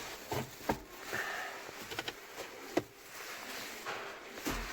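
A few light clicks and knocks, spaced irregularly, over a faint background hiss.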